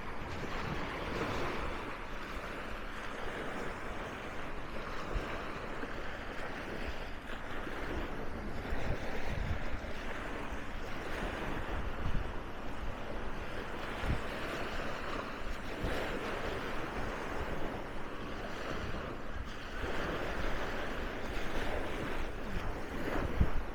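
Sea waves washing onto a sandy beach: a steady surf hiss that swells and eases every few seconds, with low rumbles of wind on the microphone.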